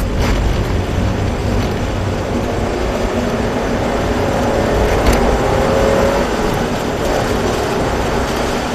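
Mazda 3 1.6's engine pulling under acceleration, heard from inside the cabin over steady road and tyre noise on a wet track; its note rises gently for a few seconds about halfway through. A short click about 5 seconds in.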